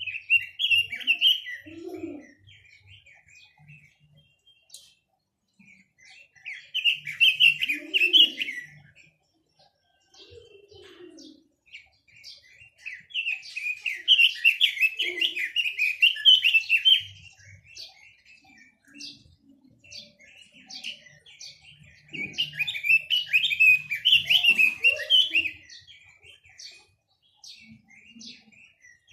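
A songbird of the kind sold in Vietnam as 'quế lâm' singing in four loud bursts of rapid warbling notes, with short scattered chirps in the gaps between them.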